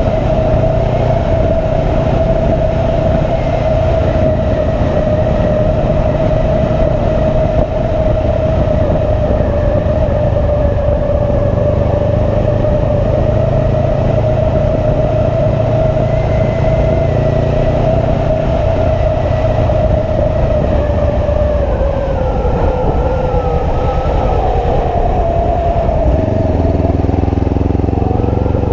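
Motorcycle engine running at a steady cruise over a constant rushing noise. Its pitch drops about three-quarters of the way through as it slows, then starts climbing again near the end.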